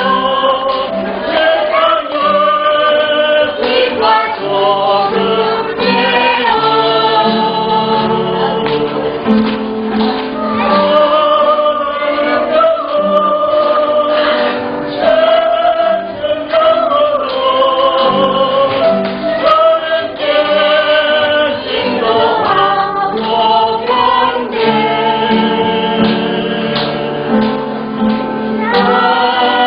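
A group of voices singing a Christian hymn together, continuous and steady.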